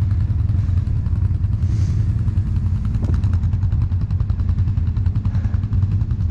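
ATV engine running steadily under way, a low, even drone made of rapid firing pulses.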